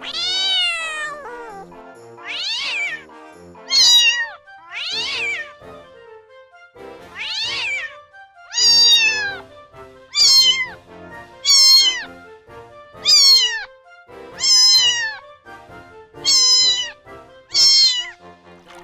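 Kitten meowing over and over: about a dozen high-pitched meows, each falling in pitch, one every second or so, over a soft music bed.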